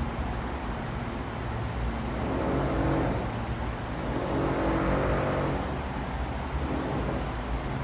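Road traffic: a steady low rumble and hiss, with two motor vehicles passing, swelling and fading about three and five seconds in.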